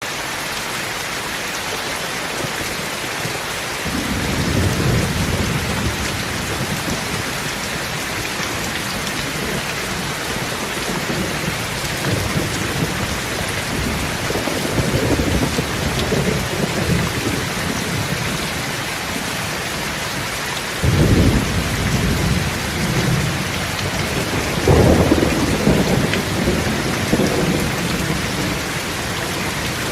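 Steady rain pouring down, with low rolls of thunder rumbling in and out several times, the strongest about two-thirds of the way through.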